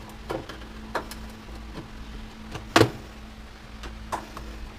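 Scattered knocks and clanks of a washer/dryer's metal panels and parts being handled and unscrewed during teardown, the loudest a little under three seconds in, over a low steady hum.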